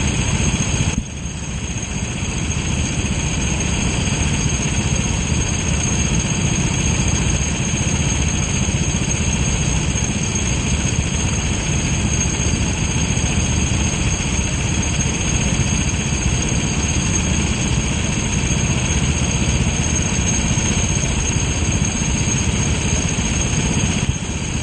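Kart engine running steadily under throttle, with a brief drop in level about a second in.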